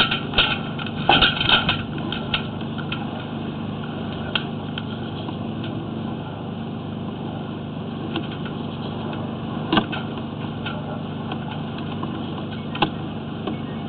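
A steady low mechanical hum like an idling engine, with scattered sharp clicks and knocks, several in the first two seconds and single ones about ten and thirteen seconds in, as the sewer inspection camera's push rod is fed forward down the drain.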